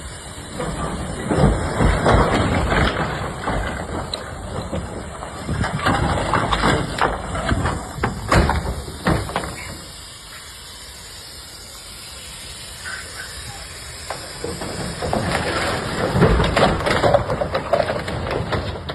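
Heavy truck running with loud, rough, noisy surges, broken by a few sharp knocks about eight to nine seconds in and easing to a quieter stretch in the middle.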